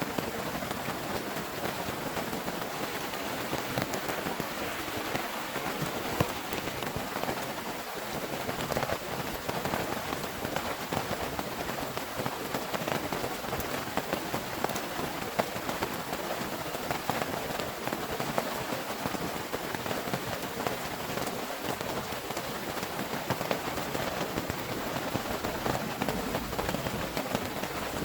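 Heavy rain falling steadily: a dense hiss of rain with many sharp drop hits on a surface.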